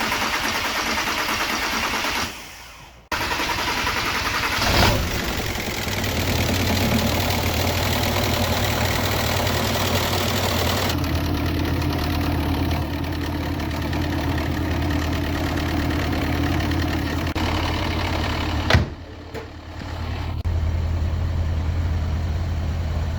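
Volkswagen Caddy's newly installed replacement engine starting up for the first time, then settling into a steady idle. A short burst of sound comes about five seconds in, and the idle cuts out briefly twice.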